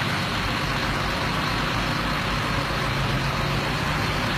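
Heavy truck engine running steadily, its low hum holding a roughly even pitch and growing a little stronger about halfway through, under a constant hiss.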